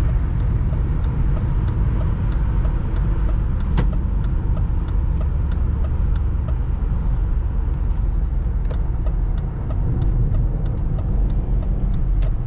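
Steady low rumble of a BMW X5 E53 4.4-litre V8 SUV driving at speed on a highway on LPG, heard from inside the cabin as mixed engine and road noise. The noise dips briefly about nine seconds in.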